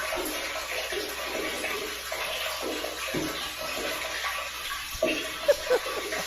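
Water running and splashing steadily, with a sharp knock about five and a half seconds in.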